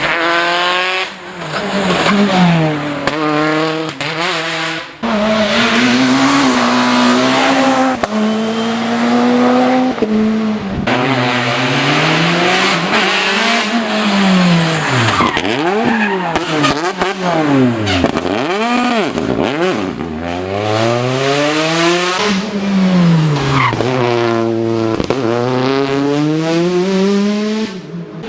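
Rally cars driven flat out through a special stage, in several short clips: engines revving up through the gears and dropping in pitch at each shift or lift, several rises and falls a few seconds apart, with tyre squeal over the top.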